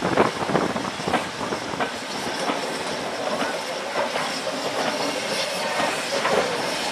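A train running on the rails: a steady rushing noise with a few faint knocks.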